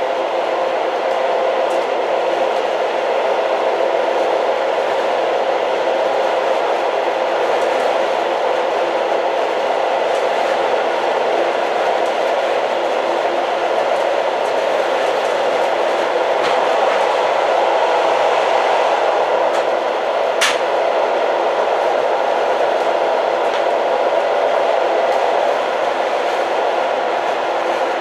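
Old train running steadily: a continuous even rumble of the moving train, with a few faint clicks and one sharp click about twenty seconds in.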